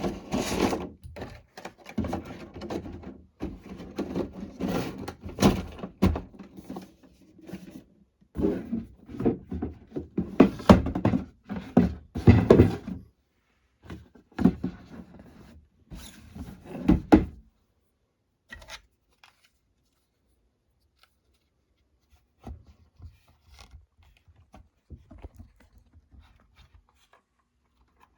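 Plastic miniature parts and packaging handled: a run of knocks, clicks and rustles for the first seventeen seconds or so, then only a few faint ticks.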